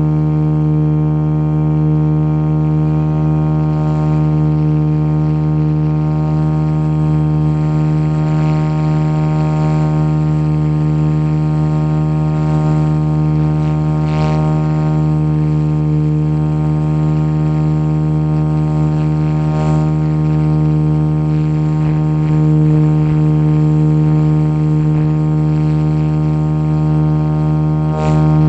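Steady drone of an RC scale Jet Ranger model helicopter in flight, its rotors and motor holding one even pitch.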